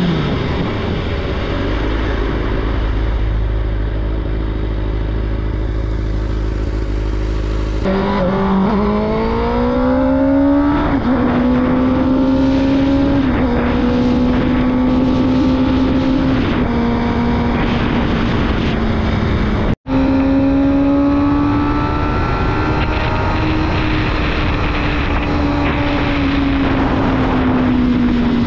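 2005 Suzuki GSX-R 600's inline-four engine running under way, steady at first, then revving up and dropping back in pitch at each upshift, several times in a row.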